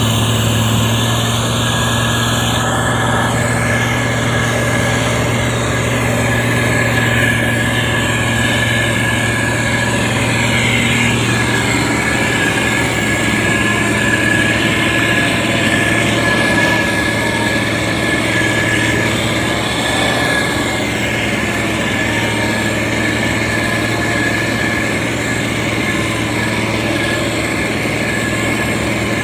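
SANY STG190C motor grader's diesel engine running steadily, with a thin high whine held over the engine hum.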